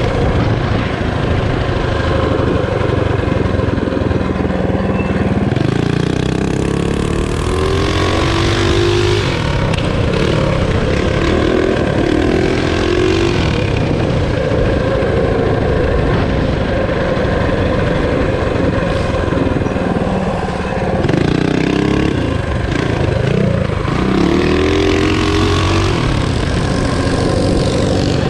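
Small single-cylinder minibike engine running hard under way, its pitch rising and falling again and again as the throttle is opened and eased.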